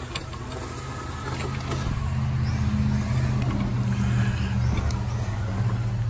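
A motor vehicle's engine running steadily, a low hum that grows louder about two seconds in and then holds.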